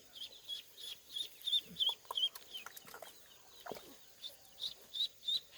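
Ducklings peeping: a run of short, high peeps, two or three a second, with a few faint knocks among them.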